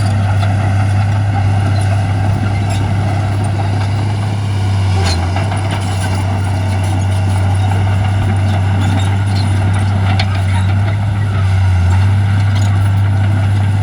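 Diesel engine of heavy earthmoving machinery running steadily at a constant low pitch, with a few light clanks.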